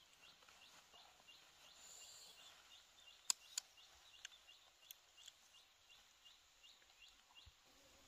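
Faint bird chirping: a short, rising chirp repeated about twice a second. A few sharp clicks cut in around the middle, the loudest a little over three seconds in.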